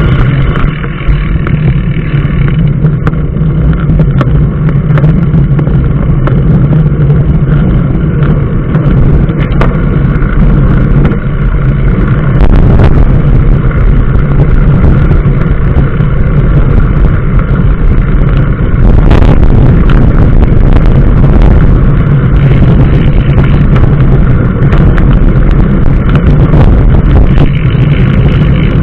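Motor vehicle on the move: a loud, steady engine hum under road and wind rumble, growing slightly louder about halfway through.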